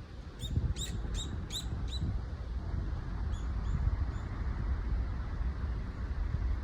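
Common kingfisher calling: a quick run of five short, shrill, piercing calls about a third of a second apart, then three fainter ones a second or so later. Low wind rumble on the microphone runs underneath.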